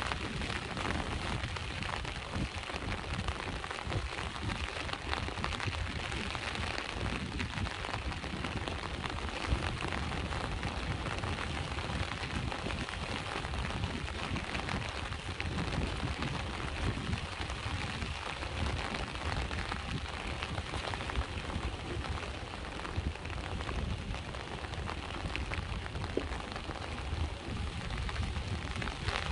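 Steady rain falling, a dense hiss of countless small drop impacts, over a constant low rumble.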